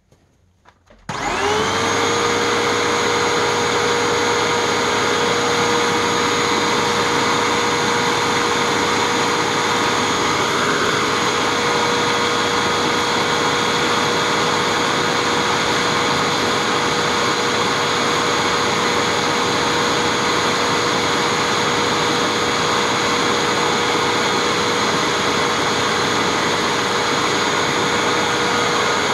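2013 Hoover WindTunnel 2 High Capacity Pet bagless upright vacuum switched on about a second in. Its motor and brushroll spin up within a second to a loud, steady whine, the brushroll turning at about 6,400 RPM.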